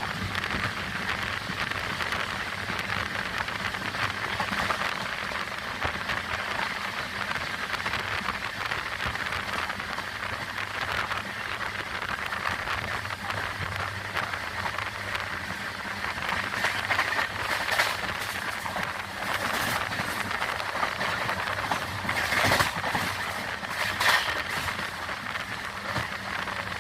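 Vaigai Superfast Express train running along the track: a steady rushing rumble of wheels on rails, with a few louder clatters in the second half.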